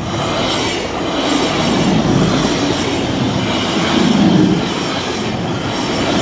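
Northern Class 170 Turbostar diesel multiple unit passing close by over a level crossing: a loud rush of engine, wheel and rail noise that swells and eases a few times as the carriages go past.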